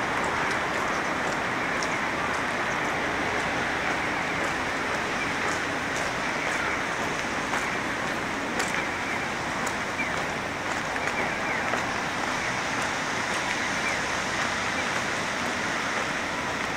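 Steady rain falling, a continuous hiss with many scattered raindrops ticking sharply close by.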